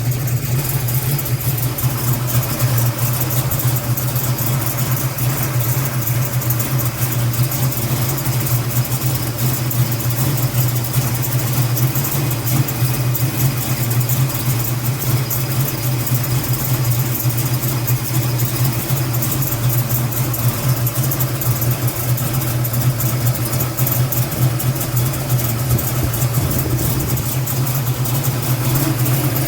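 Big-block stroker engine idling steadily through its exhaust, a deep even rumble with no revving.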